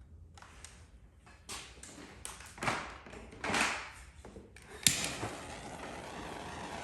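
Clicks and knocks of paintless dent repair glue-pull tools being handled on the panel, with a sharp snap about five seconds in. A steady rushing noise starts right after the snap.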